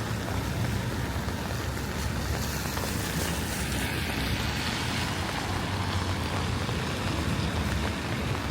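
Rainy street ambience: a steady hiss of rain and wet-road traffic with a low rumble, and a passing vehicle's tyre hiss swelling and fading about three to five seconds in.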